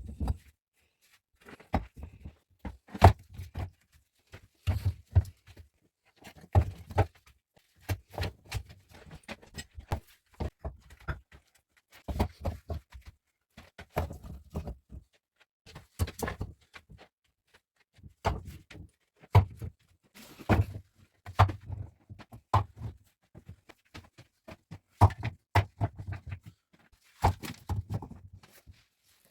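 Irregular knocks and thuds from hard objects being handled or struck, one to several a second with short pauses, some with a deep thump under the click.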